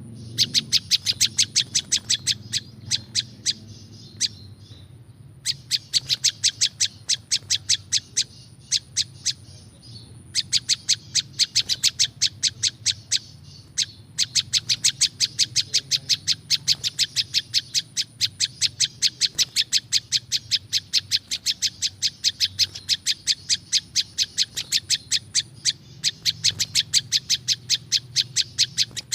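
Prenjak lumut, a small Indonesian warbler, calling in rapid runs of sharp, high chip notes, about six a second, in long bouts with short pauses. A low steady hum lies underneath.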